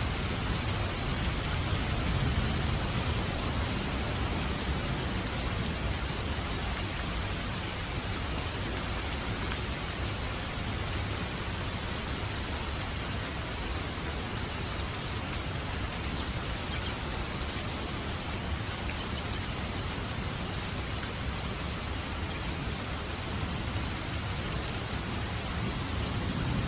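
Steady, dense rain falling on a roof, with a low rumble of distant thunder swelling briefly near the start and again at the end.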